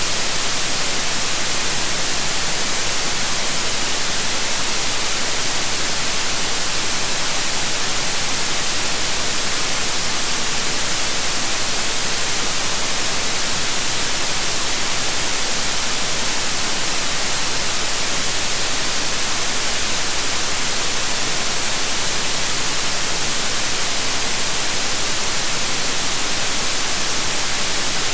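Generated white noise: a steady, even hiss that does not change in level or character.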